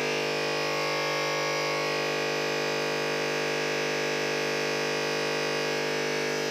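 Home UPS (inverter backup unit) giving off a steady electrical buzz, a dense chord of many fixed tones over a hiss that holds level throughout. The owner has heard it for 2-3 days and does not know its cause.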